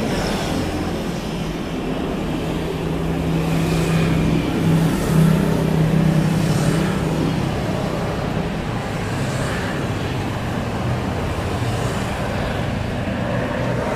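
Steady road traffic noise, with a vehicle's engine hum swelling and loudest about five seconds in.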